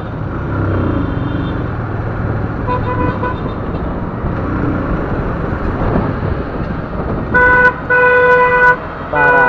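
Road and wind noise from a motorcycle riding through traffic, with a vehicle horn beeping briefly about three seconds in, then honking loudly three times near the end.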